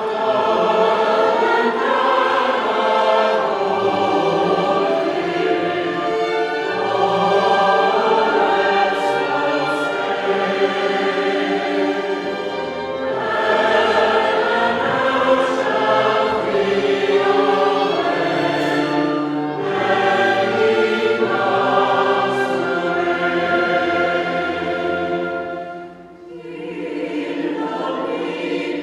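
A choir singing, with instrumental accompaniment, pausing briefly near the end before going on.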